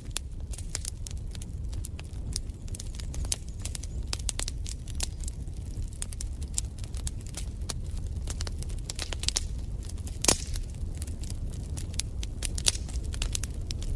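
Wood fire crackling in a fireplace: irregular sharp pops and snaps over a steady low rumble of the flames, with one louder pop about ten seconds in.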